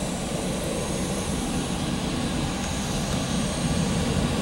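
Jet engine noise from a Boeing 737-800's CFM56-7B turbofans, a steady rushing drone that grows a little louder near the end.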